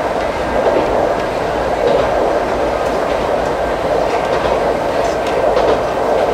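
Ichibata Electric Railway 2100-series electric train running at speed, heard from inside the car: a steady rumble of wheels on rail with a few faint clicks scattered through it.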